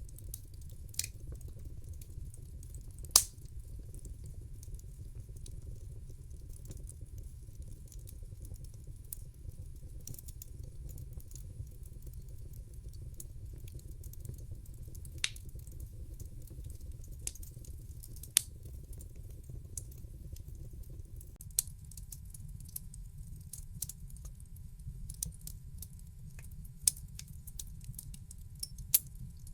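Wood fire crackling in a fireplace: scattered sharp pops and snaps over a steady low rumble, the loudest pop about three seconds in.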